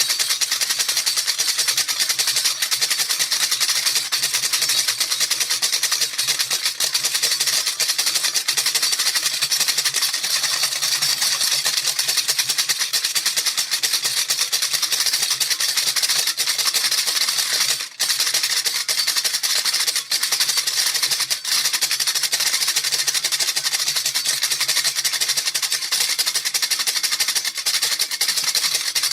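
Baby rattle shaken fast and without a break, a dense steady rattling of beads inside the toy. It stops for a split second about two thirds of the way through.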